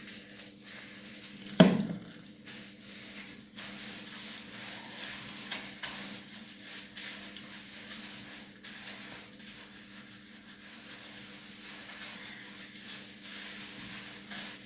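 Gloved hands working creamy hair dye through hair, a soft wet rubbing and squishing with small clicks, over a faint steady hum. One sharp knock about a second and a half in.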